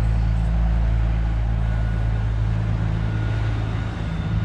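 A motor vehicle engine running at a steady idle, a low even hum.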